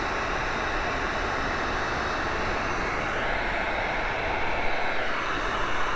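Heat gun blowing steadily, a constant rush of hot air.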